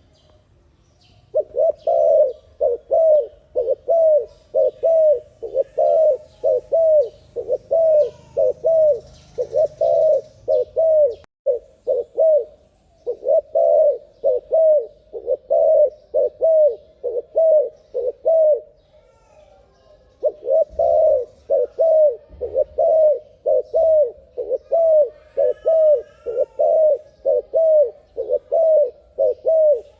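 Dove cooing in a fast run of short, evenly repeated coos, about two a second, broken by a few short pauses and one longer pause of about two seconds near two-thirds of the way through.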